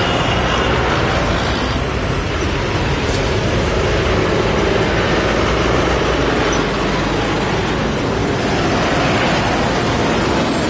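Tractor engines running in a steady, loud rumble of mixed engine noise.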